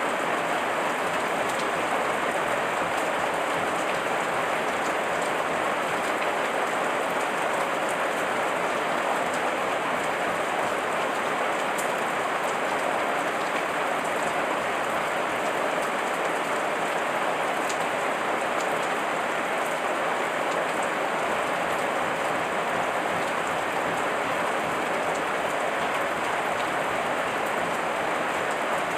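Heavy rain falling steadily, an even hiss of dense drops with an occasional faint tick of a single drop.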